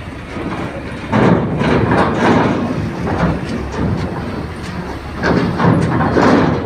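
Heavy vehicle rumbling and rattling, with rough surges of noise about a second in and again around five seconds in.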